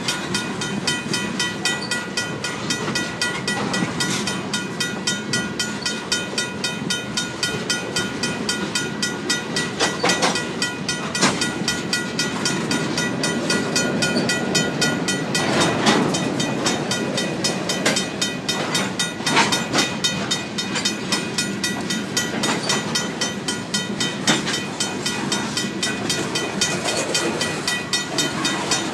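Freight cars of a mixed freight train, tank cars and covered hoppers, rolling past with a steady rumble and clatter of wheels on rail and a few sharp clanks. Over it the crossing's RACO mechanical bell rings rapidly and without a break.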